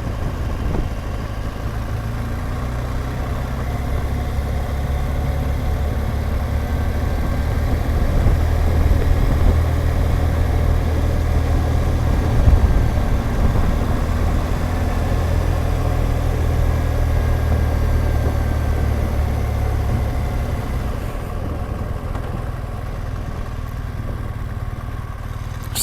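BMW R1200GSA's boxer-twin engine running at low revs as the motorcycle rides downhill, with a steady rush of wind noise. The sound swells slightly midway and eases off somewhat near the end.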